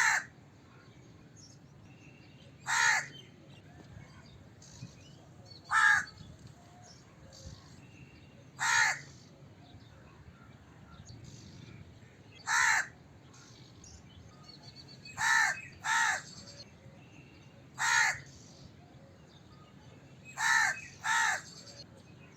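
A crow cawing: short single caws every two to three seconds, twice in quick pairs, about ten in all.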